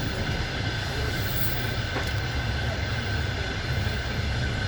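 Passenger train running, heard from inside the carriage at the window: a steady low rumble of wheels and car body with a constant high tone over it.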